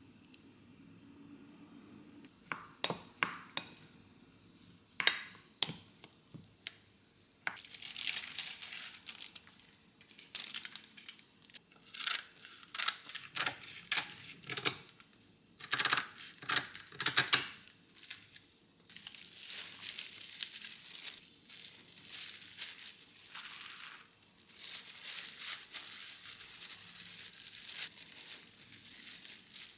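Crinkling and rustling in short, irregular bursts, with a few sharp clicks and knocks in the first several seconds.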